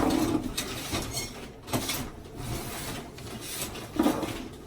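Rustling, rubbing and scraping handling noises, with a few sharper scrapes or knocks.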